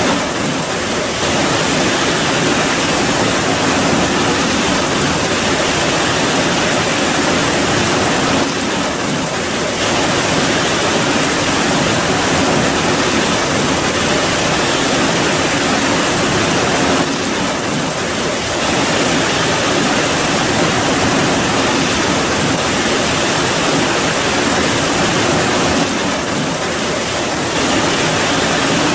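Heavy rain falling: a dense, steady hiss of water, with a brief slight dip in level about every nine seconds.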